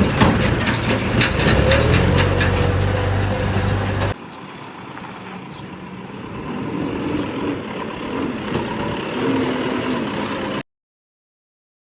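JCB's diesel engine running under work, with clanks and knocks over a steady low hum. About four seconds in it drops suddenly to a quieter engine whose pitch rises and falls. It cuts off to silence near the end.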